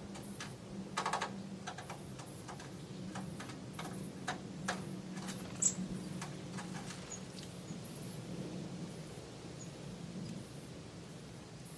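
Forest birds giving an irregular scatter of short, sharp call notes and ticks, with one brief high whistle about six seconds in, over a steady low hum.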